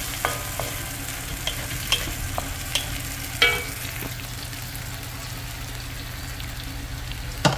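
Chopped onions sizzling steadily as they fry in oil in a hammered metal kadai, stirred with a wooden spatula that scrapes and taps against the pan. A few of the taps ring briefly, the loudest about three and a half seconds in and just before the end, with the stirring thinning out in the second half.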